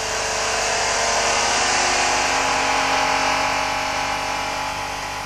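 Alfa Romeo 3.0 Busso V6 12-valve engine running at steady high revs under full load on a test-cell dynamometer. A constant-pitch drone that swells a little towards the middle and eases slightly near the end.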